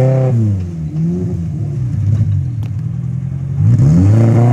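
Off-road 4x4's engine revving under load as it struggles up a steep, muddy bank. It revs up and drops back twice: once at the start and again near the end.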